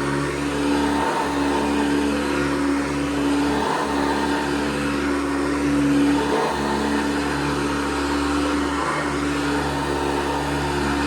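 1982 Hoover Guardsman upright vacuum cleaner running with a steady motor hum, dipping briefly about every two and a half seconds.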